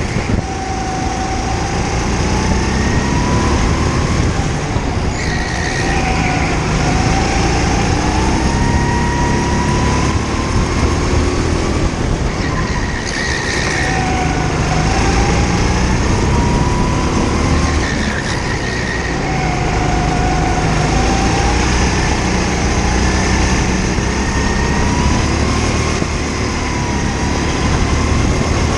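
Indoor kart's engine heard onboard, revving through a lap: its pitch climbs and drops back every few seconds as the throttle is opened and closed.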